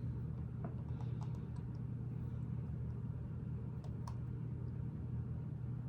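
A few faint, scattered clicks of plastic Lego bricks being handled and pressed into place, over a steady low background hum.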